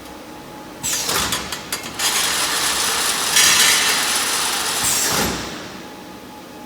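CNC four-axis automatic welding machine running. It starts suddenly about a second in with a falling whine, runs with a steady, noisy mechanical sound for about three seconds, then winds down with a falling whine and fades just after five seconds in.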